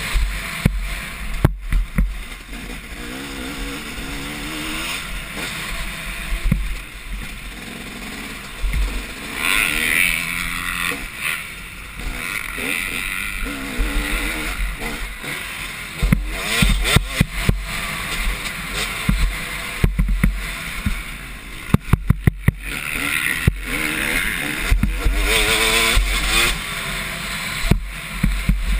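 Several motocross dirt bikes racing around the track, their two-stroke engines revving up and down as they accelerate and shift. Clusters of sharp knocks come through several times, loudest about two-thirds of the way in.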